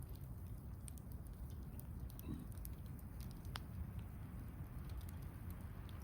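Wood campfire crackling: scattered light pops over a steady low rumble, with one sharper pop about three and a half seconds in.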